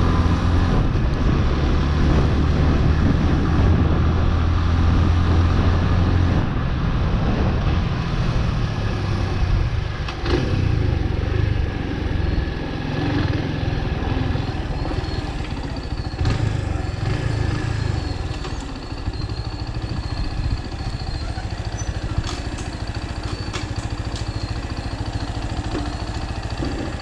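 Chopper Road 150cc motorcycle's single-cylinder engine running while ridden, strong and steady at first, then easing off about six seconds in to a lower, more uneven run that settles later on. The bike is new and still being run in. It is heard through a GoPro without an external microphone.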